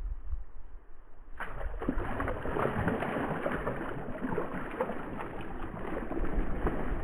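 Fast, turbulent river water rushing steadily, the river in flood; it starts suddenly about a second and a half in, after a low rumble.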